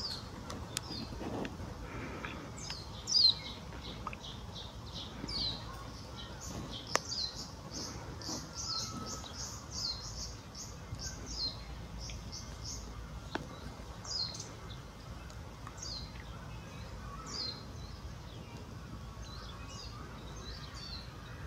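A small bird chirping repeatedly: short, high, downward-sliding chirps, with a fast run of about four a second in the middle, over steady low background noise.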